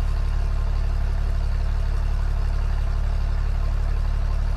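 An old tractor engine idling steadily, left running to warm up.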